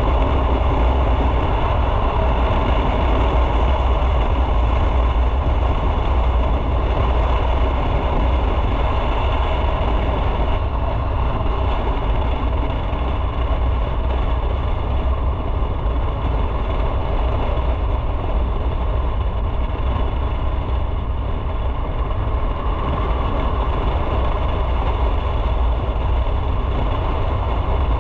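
Motorcycle on the move: steady engine and road-and-wind rumble, with the high hiss easing a little about ten seconds in.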